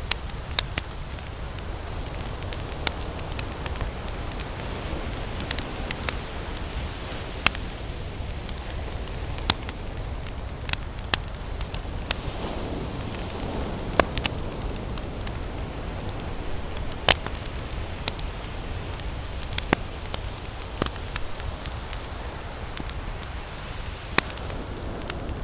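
Campfire crackling, with irregular sharp pops over a steady hiss and a low rumble.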